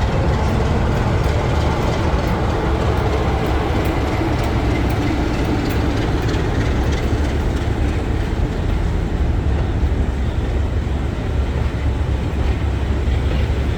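Heritage diesel locomotive running with its train, a steady deep rumble with faint sharp clicks through the first half.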